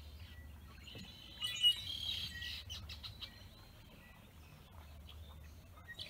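Small birds chirping and calling, with a busy run of quick chirps about a second and a half in, over a faint low rumble.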